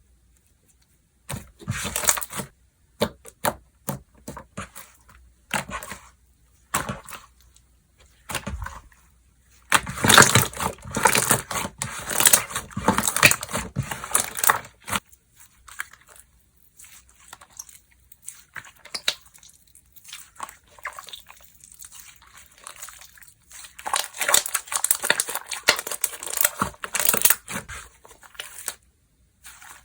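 Slime being squished, stretched and pressed by hand, giving sticky crackling and tearing sounds in irregular bursts. The longest, loudest run comes about ten seconds in, and another near the end.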